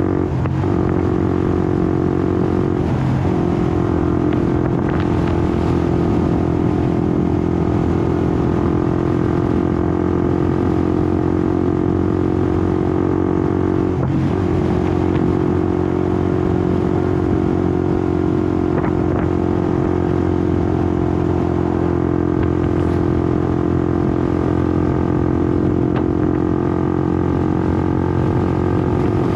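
Honda CBR150R's single-cylinder engine running under way at a steady pace, its pitch dipping briefly and recovering three times, around the start, about three seconds in and about fourteen seconds in.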